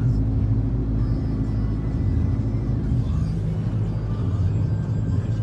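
Car engine running steadily at low revs, heard from inside the car as it drives through floodwater.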